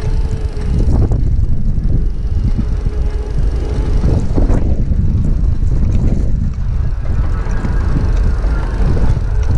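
Heavy wind rumble on the microphone of an e-bike riding through a snowstorm, with a faint steady whine from the e-bike's motor at the start and again from about seven seconds in.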